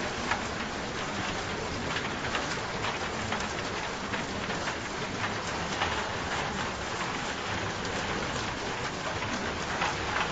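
Steady rain falling, with single drops striking close by all through it.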